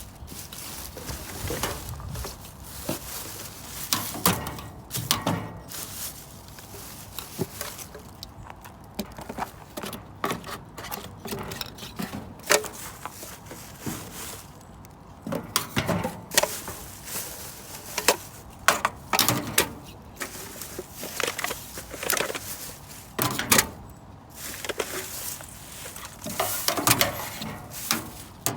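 Irregular clatter and clinks of litter being picked up and bagged: beer cans and glass bottles knocking against each other at uneven intervals.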